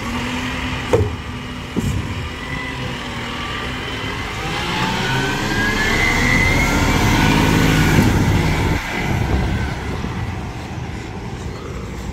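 Garbage truck engine running, then revving up with a rising whine to its loudest about eight seconds in before dropping off suddenly. There are a couple of sharp knocks in the first two seconds.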